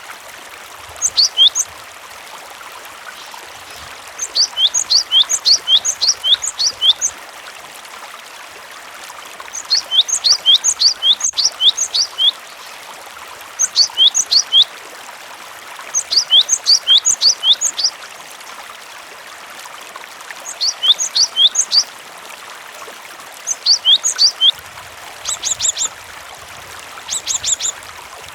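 Cinereous tit (gelatik batu) singing in bursts of quick, high, downward-sweeping chirps, several in a row, repeated every few seconds over a steady sound of running water. Near the end the notes turn shorter and more clipped.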